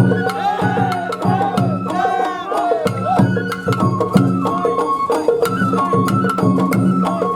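Sawara-bayashi festival music from a float: a bamboo flute plays held notes and short sliding phrases over regularly struck taiko drums and the sharp clanks of a small hand gong.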